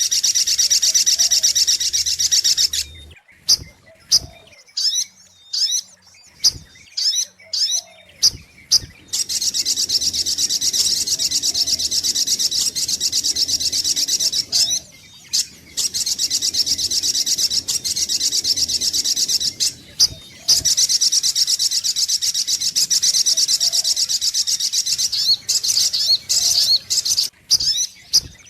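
Little spiderhunter (sogok ontong) calling: long, high-pitched rapid trills lasting several seconds each, broken by spells of short separate chips. This is a lure-call recording for attracting the bird.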